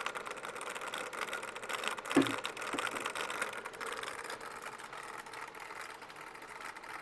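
Sony VGN-C828M laptop's cooling fan running with a fast, fine rattle: the fan noise fault. A brief knock about two seconds in.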